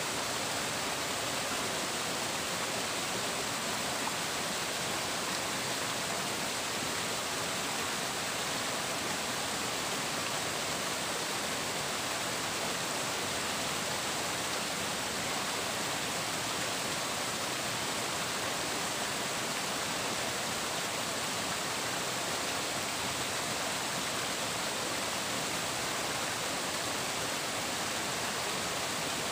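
Flowing water rushing steadily as an even, unbroken hiss, with no separate splashes or bird calls.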